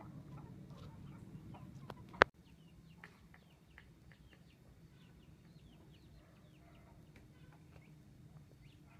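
Birds chirping in many short falling calls, over a low rumble that stops with one sharp, loud click about two seconds in.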